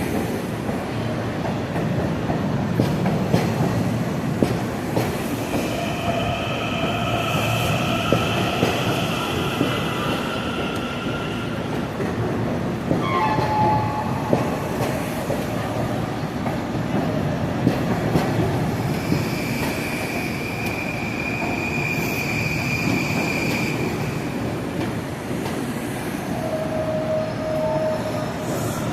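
Long Island Rail Road commuter train rolling on the rails with a steady rumble and clicks over the rail joints. High wheel squeals come twice, a few seconds each, with a short falling squeal between them.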